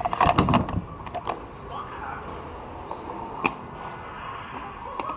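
Knocks and clatter of tools and parts being handled during a fuel filter replacement: a quick run of loud knocks in the first second, a couple more clicks just after, and one sharp click about halfway through.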